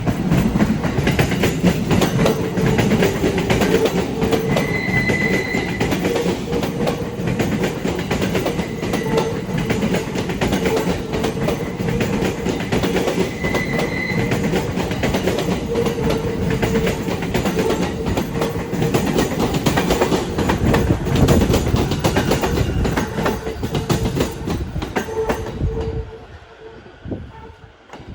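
Sobu Line electric train passing, its wheels clacking rapidly and continuously over rail joints under a steady hum. There are two brief high tones, one about 5 seconds in and one about 14 seconds in. The sound falls away suddenly near the end as the last car passes.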